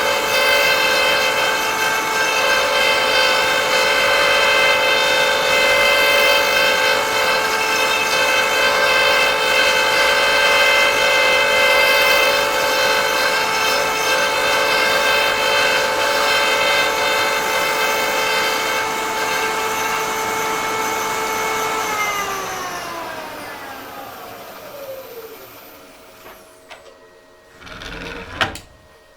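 Electric power-tool motor of a woodturning threading setup running at a steady whine. About 22 seconds in it is switched off and winds down, falling in pitch over a few seconds. A single short knock comes near the end.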